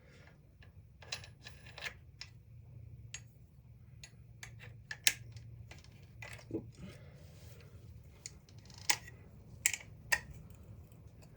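Scattered clicks, taps and light metal knocks of hand tools being handled while a cutoff wheel is fitted to an angle grinder. The loudest knock comes about five seconds in, over a faint steady low hum.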